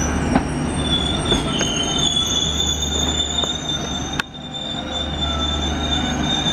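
Steady low rumble of a moving vehicle with high-pitched squealing tones held over it, scattered light clicks, and one sharp click about four seconds in, after which the sound briefly drops.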